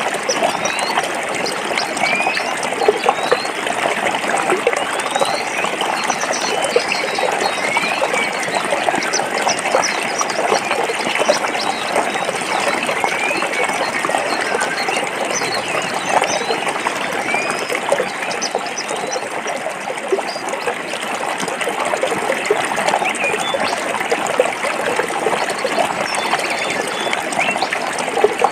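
A forest stream running steadily over rocks, a constant rushing and trickling water sound. Short rising chirps come through now and then.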